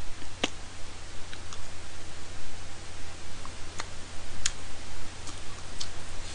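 Eating sounds of a person chewing spicy rice-cake tteokbokki: about seven scattered small clicks over a few seconds, from chewing and the chopsticks, over a steady hiss and low hum.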